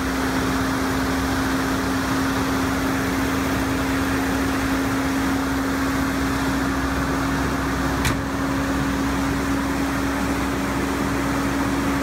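Toyota 22R four-cylinder engine idling steadily while it warms up after a cold start at about 1°F, with a single brief click about eight seconds in.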